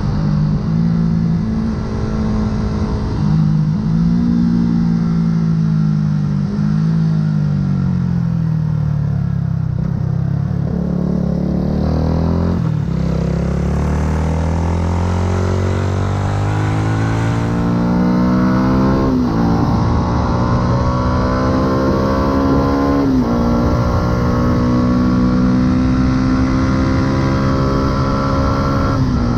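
Yamaha R125's 125 cc single-cylinder four-stroke engine through a full aftermarket exhaust, riding. The engine note winds down for several seconds as the bike slows, then climbs under acceleration, dropping in pitch at two upshifts about two-thirds of the way through and near the end, and pulling up again after each.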